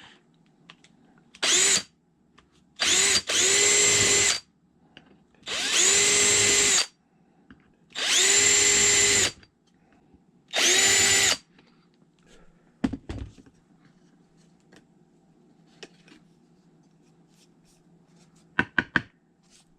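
Bauer 20-volt cordless power drill run in about six short bursts of a second or so each, spinning up to a steady whine every time, with a few light clicks near the end.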